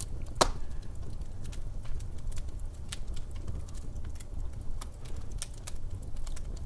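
Wood fire crackling in a fireplace: irregular snaps and pops over a low steady rumble, with one loud pop about half a second in.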